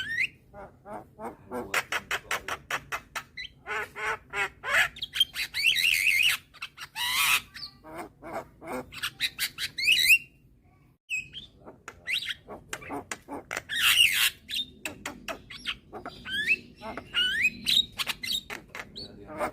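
Young Javan myna singing: a varied, busy run of rapid clicking trains, harsh squawks and short whistled glides, broken by a brief pause about ten seconds in.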